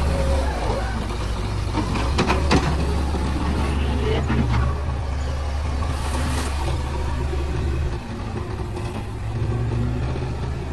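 Diesel engine of a JCB 3DX backhoe loader running steadily under work, with a few sharp clanks about two and four seconds in. The engine drone drops off about eight seconds in.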